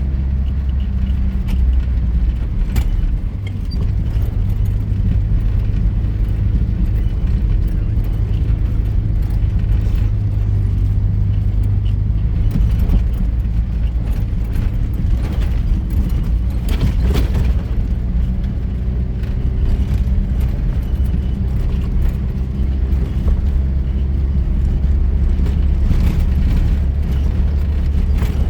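Vehicle driving off-road: a steady low engine and road rumble whose pitch steps up a few seconds in and drops back down about two-thirds of the way through, with an occasional knock or rattle.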